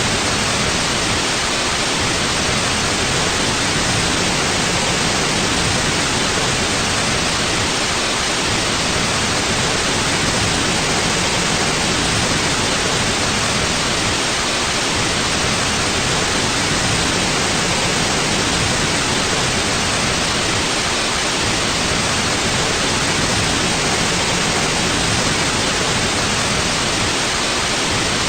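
Steady white noise for sleep: an even, unchanging hiss that spreads from low to high pitches without any breaks.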